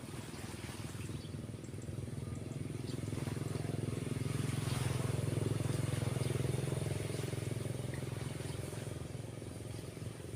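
A motorcycle passing by: its engine grows louder to a peak about midway, then fades away, over the steady wash of waves breaking on the beach.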